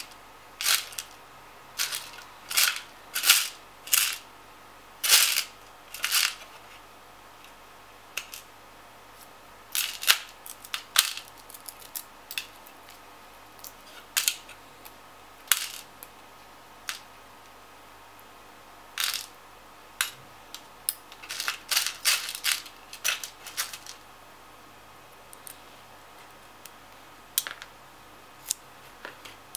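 Small metal screws clicking and clinking as they are picked through in search of a longer one, a string of irregular sharp clicks that come in clusters.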